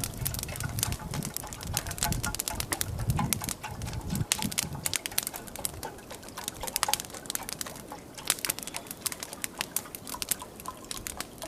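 Log campfire (an Evenki yurlok) burning, with dense irregular crackles and snaps throughout, and a low rumble in the first few seconds.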